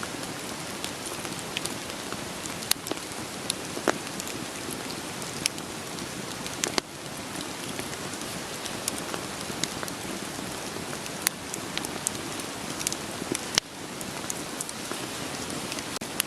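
Wood fire crackling with irregular sharp pops and snaps over a steady hiss of rain falling.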